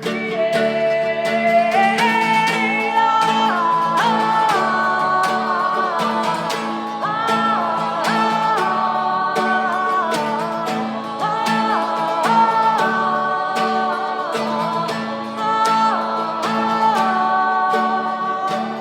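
Live folk music: two voices singing long held notes in harmony, without clear words, over strummed acoustic guitar.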